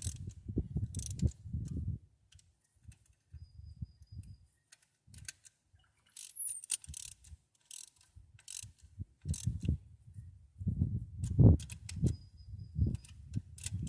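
Hand ratchet wrench clicking in short spells, mixed with knocks from tools and metal parts. The clicking is sparse in the middle and busiest near the end.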